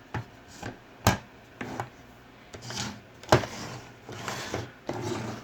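Knocks, clicks and short scrapes of an old Norton reversible oilstone set being handled and turned over in its holder: about eight separate taps, the sharpest about a second in and a little after three seconds, with brief rubbing noises between.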